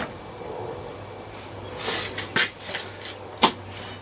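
Metal parts being handled on a workbench: a short scrape, then two sharp metallic clanks about a second apart, over a steady low electrical hum.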